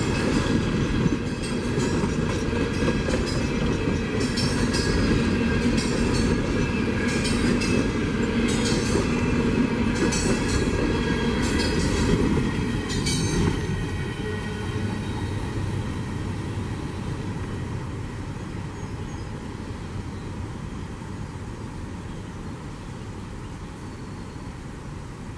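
A train rolling past with a steady rumble and wheels clicking over rail joints; the clicking stops about halfway through and the rumble slowly fades away.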